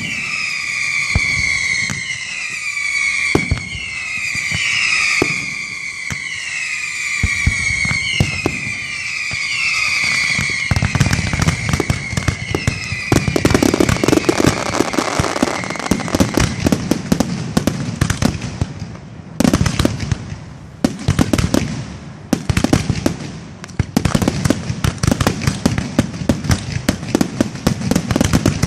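Aerial fireworks display: overlapping whistles falling in pitch over scattered bangs, giving way about halfway to a dense barrage of rapid crackling reports with a few brief lulls.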